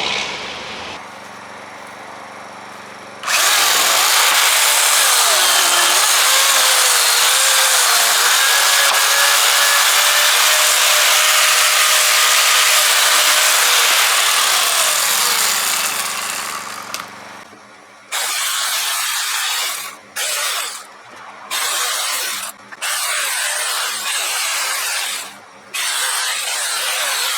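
Electric chainsaw cutting firewood: one long cut lasting about thirteen seconds, then a string of short bursts as the saw is run on and off in quick cuts.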